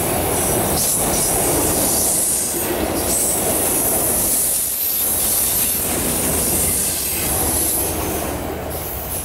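Freight train of autorack cars rolling past at close range, steel wheels on the rails with a steady high squeal over the rumble. The sound eases off near the end as the last cars go by.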